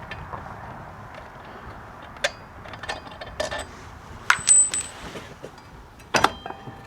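A few separate metallic clinks and clanks of hand tools and metal parts being handled while working on a motorcycle's front wheel and brake, one about halfway with a short high metallic ring.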